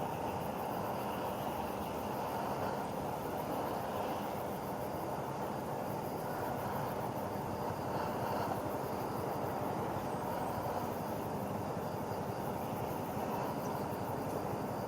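Steady low rumbling background noise with no distinct events, of the kind made by distant traffic or wind.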